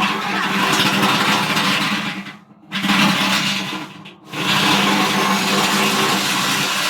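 Electric power drill running under load, a countersink bit cutting to enlarge a headlight hole that is still too small. It runs with a steady hum and a hiss, stops briefly about two seconds in and again about four seconds in, then runs on.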